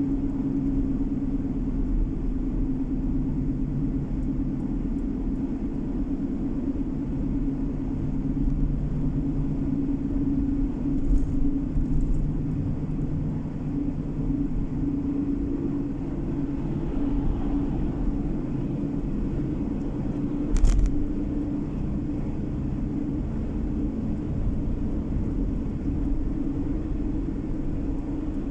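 Car driving at steady speed, heard from inside the cabin: a constant low engine and road hum with a steady drone. One short thump comes about two-thirds of the way in.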